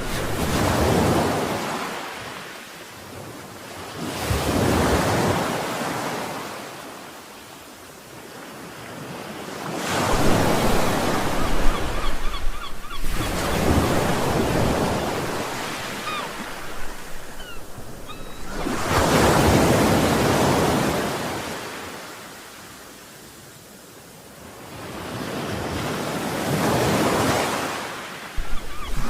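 Sea waves washing onto the shore, each surge swelling and then fading away, about five in a row. One longer, rougher surge comes about a third of the way in.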